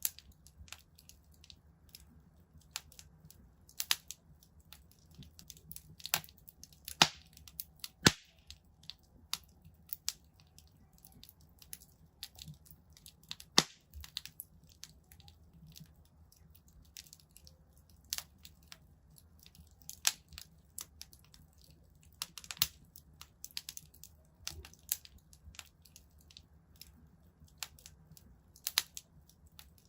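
Wood fire burning in a fireplace, crackling with irregular sharp pops and snaps, a few loud cracks standing out, over a faint low hum.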